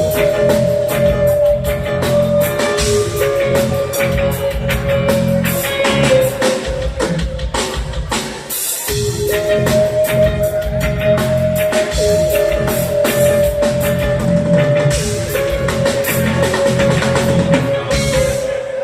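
Live reggae band playing an instrumental passage with no vocals: drum kit, bass and guitar under a held keyboard tone. The bass drops out briefly about nine seconds in, then the groove comes back in.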